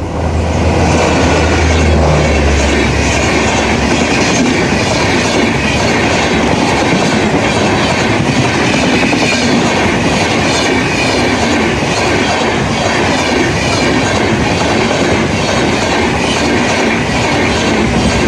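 Indian Railways train passing close by at high speed: a loud, steady rush of wheels on rail with a repeating clickety-clack. A deep rumble in the first few seconds fades out.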